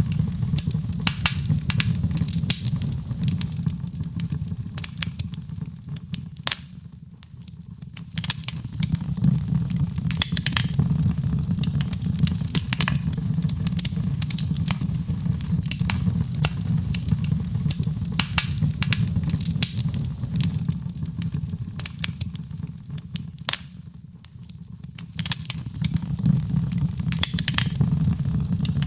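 Wood fire crackling, with frequent sharp pops and snaps over a steady low rumble of the flames. The level sinks twice, about seven seconds in and again near twenty-four seconds, then swells back.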